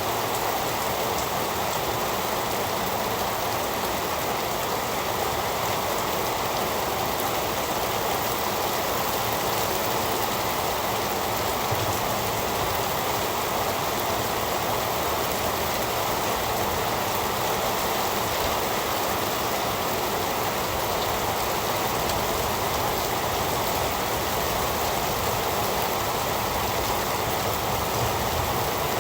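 Steady heavy rain falling, an even rushing hiss with no changes or breaks.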